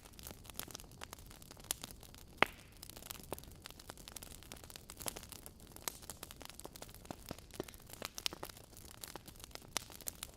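Wood fire in a fireplace crackling: irregular sharp pops and ticks from the burning logs over a soft hiss, with one loud pop about two and a half seconds in.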